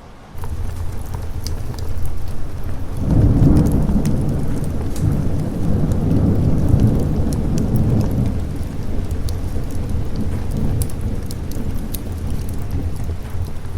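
Steady rain with a rumble of thunder that swells about three seconds in, rolls for several seconds and dies away.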